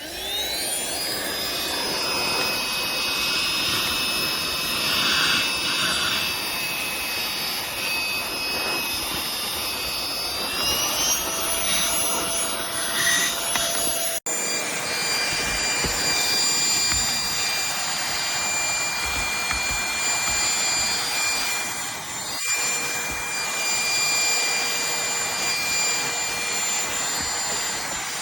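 Aspiron handheld cordless vacuum cleaner switching on and running: a high motor whine over a rush of air that climbs in pitch as it spins up. About eleven seconds in, the whine rises a step higher and then holds steady, with a momentary break about fourteen seconds in.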